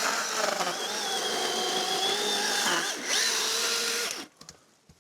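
Chainsaw running and cutting into a fallen tree, its speed dipping briefly about three seconds in; it stops suddenly about four seconds in, leaving a few faint knocks.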